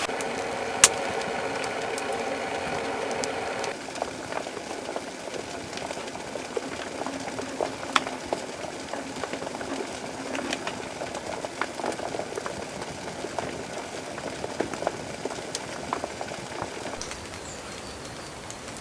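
Cooking sizzling and bubbling over a wood stove, with scattered pops and crackles. It is louder and steadier for the first four seconds or so, then settles to a quieter sizzle.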